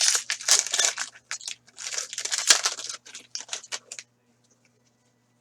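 Foil trading-card pack wrapper being torn open and crinkled in the hands, a run of sharp crackles that stops about four seconds in.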